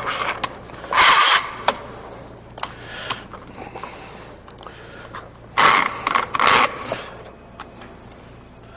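Short scraping strokes, one about a second in and two or three close together a little past halfway, with scattered light knocks in between. These are wood pieces and tools being handled and set on a workbench while a chair leg is glued and clamped.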